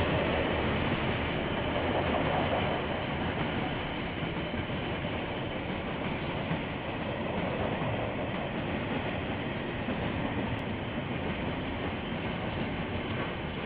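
KiwiRail train passing, a steady noise of wheels running on the rails. It is a little louder for the first few seconds, then holds level. It is heard through a security camera's microphone.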